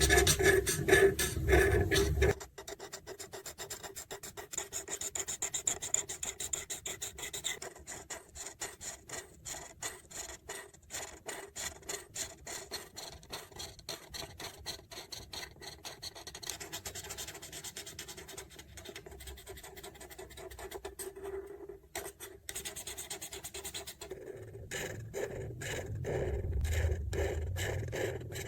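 Marker tips scratching and rubbing on paper in rapid back-and-forth colouring strokes. The strokes are louder for the first couple of seconds and again near the end.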